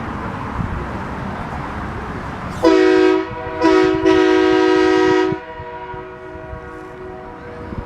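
A horn sounding three times: two short blasts and then a longer one of just over a second, each a steady, even tone.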